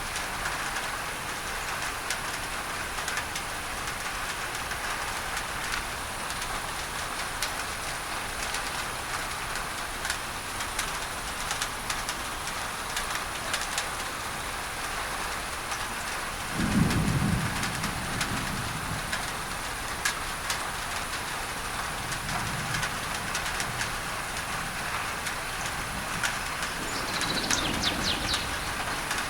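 Rain on a tin roof, a dense patter of drops over steady masking noise. A roll of low thunder comes just past the middle and fainter rumbles follow. A bird chirps briefly near the end.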